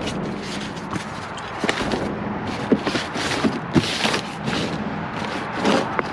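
Rustling and scuffing from a box and its packaging being handled, with a few sharp clicks and knocks.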